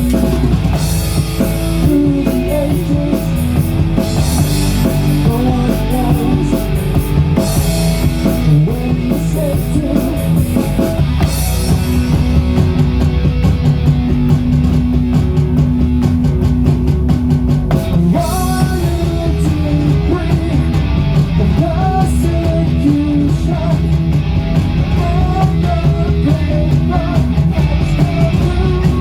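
Rock band playing live at full volume: drum kit and electric guitars over a steady bass. There are bright crashes every few seconds for the first twelve seconds or so, then faster, lighter ticking from the drums.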